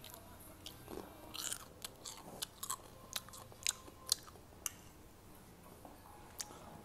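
Close-up biting and chewing of crunchy food, with a quick run of sharp crunches in the middle and quieter chewing either side.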